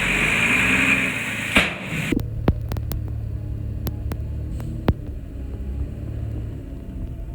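Heavy construction-machine diesel engine running hard, then an abrupt switch about two seconds in to a low, steady engine drone with scattered sharp clicks and knocks.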